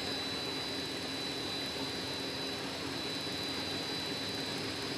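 Pulling tractor's engine running steadily, an even noise that holds the same level throughout, with a faint constant high whine over it.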